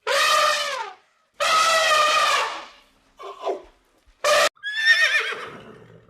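A series of animal calls: five separate cries, the first falling in pitch and the second longer. Two short calls follow, then a last call with a wavering pitch that fades out near the end.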